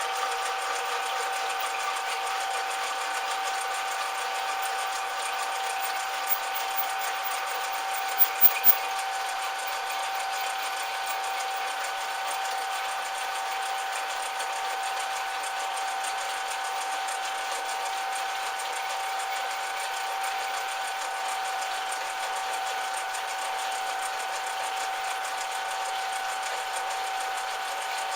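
Metal lathe running steadily, its motor and gearing giving a constant whine with a few steady tones. A few brief sharp clicks come about eight seconds in.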